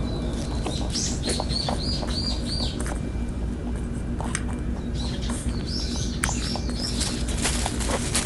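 A songbird calling in quick runs of short, repeated high chirps, one run in the first few seconds and another in the second half, over a steady low background rumble. A few brief sharp clicks come in the second half.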